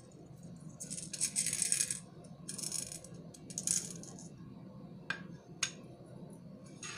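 Small beads rattling and clattering in three short bursts as they are stirred or picked through, followed by two sharp clicks a little later.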